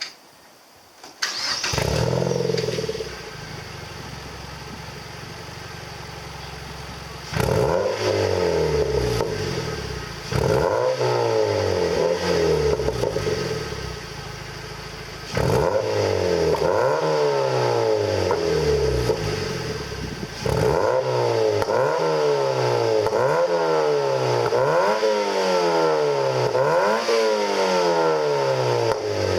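Mazda MX-5 Roadster (NC) 2.0-litre four-cylinder engine starting about a second in, idling, then free-revved in repeated blips, each a quick rise and a slower fall in pitch, coming about once a second near the end. It breathes through an RS Factory Stage NC exhaust whose centre-pipe sub-silencer has been replaced by a straight pipe.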